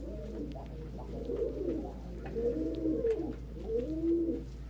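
Domestic pigeons cooing, several overlapping coos that each rise and fall in pitch, about one a second.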